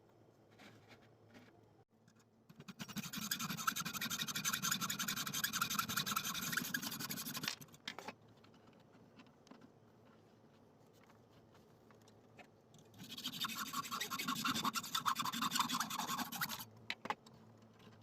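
A metal part being scraped by hand with an abrasive tool: two spells of brisk, rapid scratching strokes, the first about five seconds long and the second about four.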